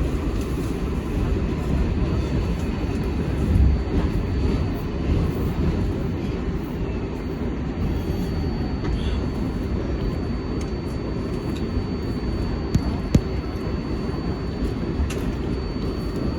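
R188 subway car of the 7 line running between stations, heard from inside the car: a steady low rumble of the wheels on the rails with a faint high whine. Two sharp clicks come about 13 seconds in.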